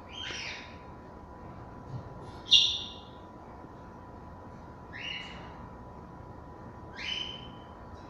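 African grey parrot giving four short calls that rise in pitch, about two seconds apart; the second call is the loudest.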